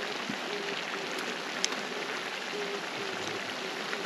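Chicken dak-galbi sizzling and crackling on a hot cast-iron cauldron-lid griddle, a steady hiss with one sharp pop about a second and a half in.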